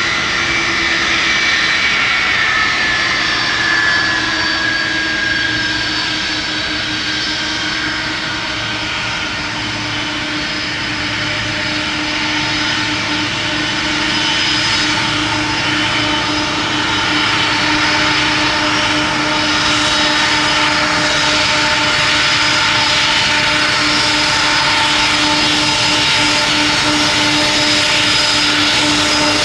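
Jet engines of a Boeing 747-400F freighter running with a steady whine and rush, a high tone sliding down in pitch over the first few seconds while the overall loudness stays even.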